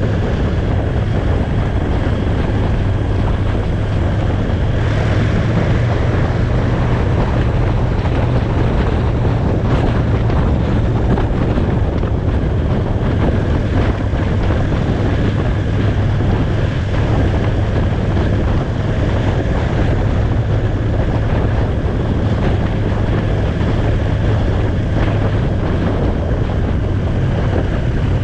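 Motorcycle riding at a steady speed, its engine running at even revs under heavy wind noise on the microphone.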